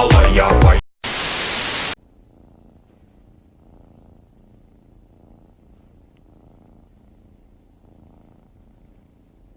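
Music cuts off and a second-long burst of loud hiss like static follows. Then a domestic cat purrs faintly and steadily, in a low rumble that swells gently now and then.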